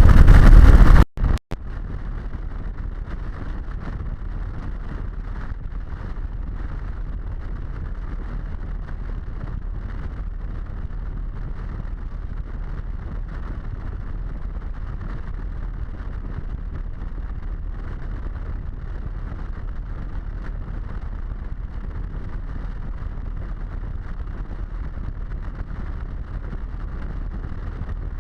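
Steady, muffled wind and motorcycle riding noise picked up by a helmet-mounted action camera, with no distinct engine note. It opens with about a second of very loud wind blast that cuts off abruptly.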